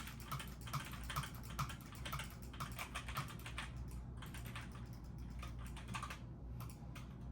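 Computer keyboard typing: a run of quick, irregular key clicks, several a second.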